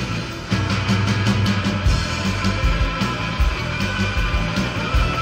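Live rock-and-roll band playing an instrumental passage between vocal lines: electric guitar over a driving drum kit and a steady low bass line. It drops out briefly about half a second in, then the full band comes back in with a hit.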